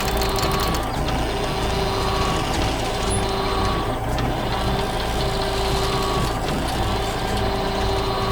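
Heavy construction machine engine running steadily. A repeating two-tone beep alternates a low note and a high note about every three quarters of a second.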